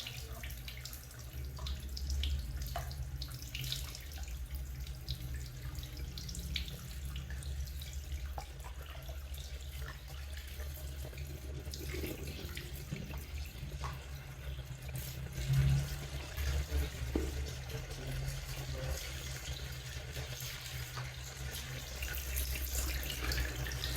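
A low stream of water running steadily from a garden hose onto a potted plant, flushing the potting mix, with faint scattered splashes and a steady low hum underneath.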